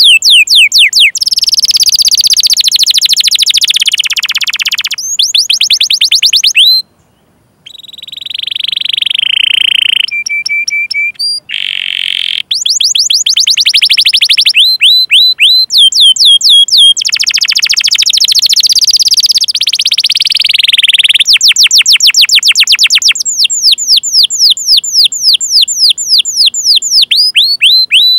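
Canary singing a long, loud song: quick runs of falling 'cuit cuit' chirps alternate with fast rolling trills. The song breaks off briefly about seven seconds in.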